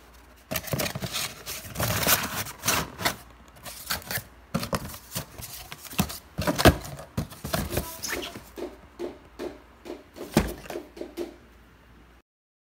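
A run of irregular knocks and clicks, like objects being handled, cutting off abruptly near the end.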